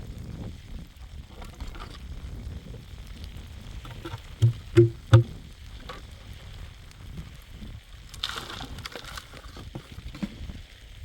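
Three dull, heavy thumps in quick succession about halfway through, over a low rumbling background, followed a few seconds later by a brief hissing rustle.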